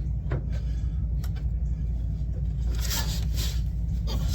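Steady low rumble with a few short metallic clicks and scrapes of a hand tool working on a bolt under the car, the busiest clicking about three seconds in.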